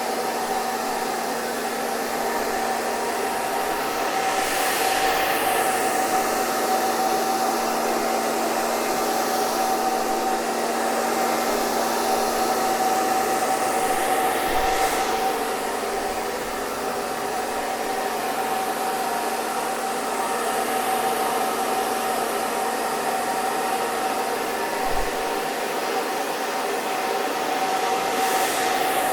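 Hair dryer running steadily: a constant blowing hiss over a steady motor whine, with the hiss shifting slowly in tone a few times.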